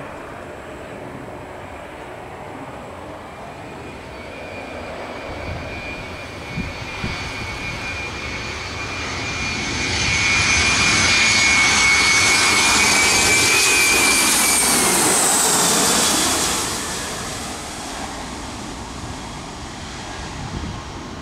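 Boeing jet airliner's engines passing close as it comes in to land. A high turbine whine grows and rises slightly over about ten seconds, the sound is loudest from about ten to sixteen seconds in, then it fades away.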